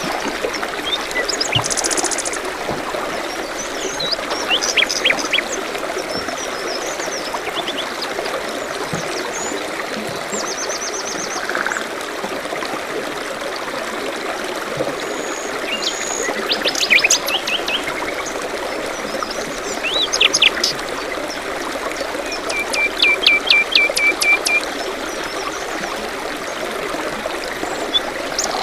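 Songbirds chirping and trilling over the steady rush of a running stream. Short calls come every few seconds, and the loudest is a rapid trill of repeated notes near the end.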